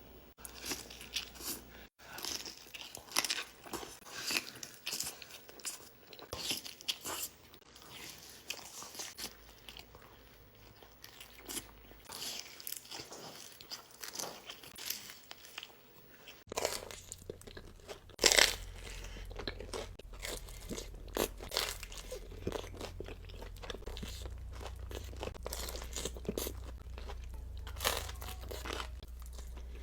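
Close-miked eating: bites and chewing of crunchy food, many short crackles one after another. About halfway through a low steady hum joins in underneath.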